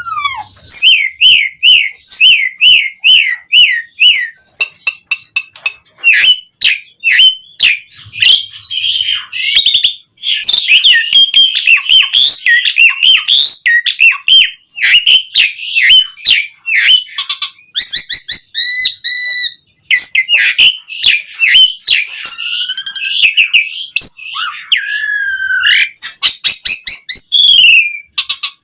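Asian pied starling (jalak suren) singing a long, varied song. It opens with a run of repeated rising-and-falling whistled notes, about two a second, then goes into rapid clicks, chatter and warbling. There is a fast trill about two-thirds of the way through, and drawn-out slurred whistles near the end.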